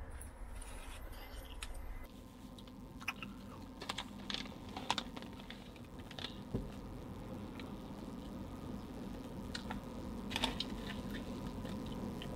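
Dried fish snack strips being chewed, with the plastic snack bag crinkling: scattered small clicks and crackles over a steady low hum.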